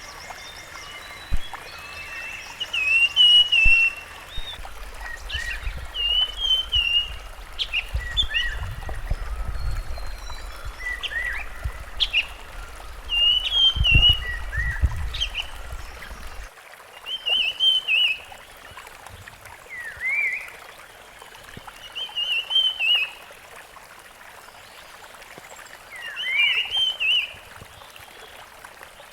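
Rusty-fronted barwings calling: short, slurred chirping phrases repeated every second or two. A low rumble runs underneath until about halfway through, with one low thump near the middle.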